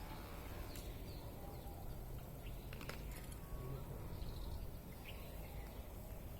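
Small birds giving short, scattered chirps over a steady low rumble, with a few sharp clicks near the start and around the middle.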